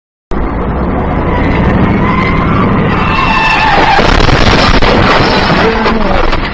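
Car tyres skidding and squealing, picked up by a dash camera: a loud rush of road noise that starts abruptly a moment in, with wavering squeal tones through the middle.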